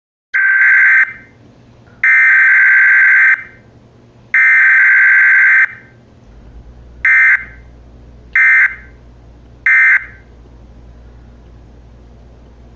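Electronic emergency-alert buzzer tone sounding six times: three long blasts, then three short ones, each a harsh buzzy tone at one steady pitch.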